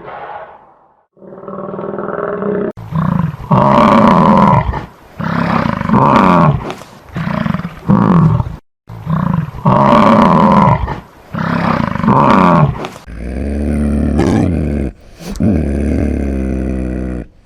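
A large animal calling loudly over and over: a run of deep, rough calls about a second each with short gaps between them, and a longer, steadier call near the end.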